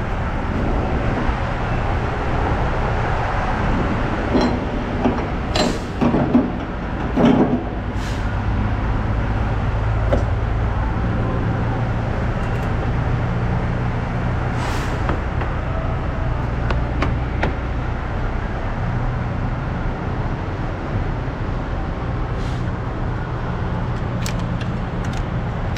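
Semi truck's diesel engine running with a steady low drone, heard from inside the cab, with a few sharp clicks and knocks, several of them bunched a few seconds in and a couple near the end.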